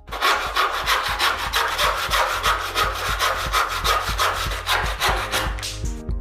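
Hand tool working wood in quick back-and-forth strokes, about five a second, a dry rasping scrape.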